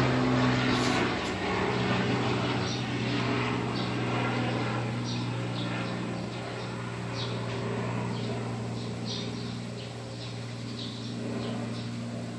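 Helicopter passing over, its steady drone slowly fading as it moves away, with small birds chirping repeatedly.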